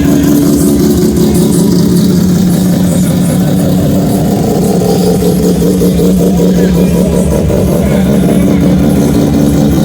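Suzuki Samurai's engine running loudly at a steady speed, its exhaust note holding an even pitch.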